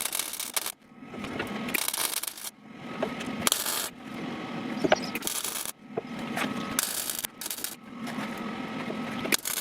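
A hand tool scraping back and forth in repeated strokes, about one stroke a second.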